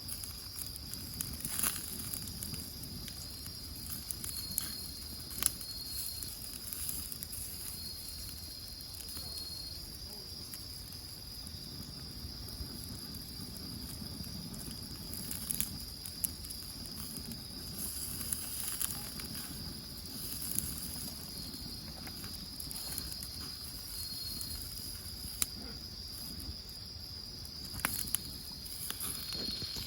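Firewood burning in a wood grill, crackling with a sharp pop every few seconds, over a steady high trill of insects.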